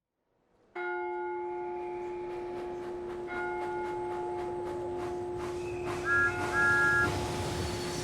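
A bell-like chime starts about a second in and rings on steadily over faint, evenly spaced ticks. Short higher tones are added near the end.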